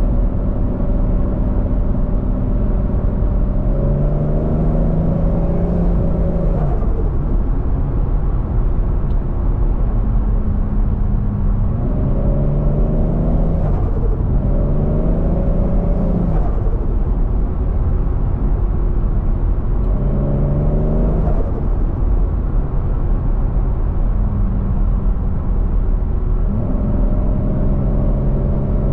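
Turbocharged Toyota 1JZ-GTE VVTi straight-six in a Scion FR-S, heard from a car being driven. It pulls hard about five times with the engine note rising in pitch, and each pull cuts off sharply when the driver lifts, the point where the turbo flutters. Between the pulls it runs at a steady lower note over a constant low road rumble.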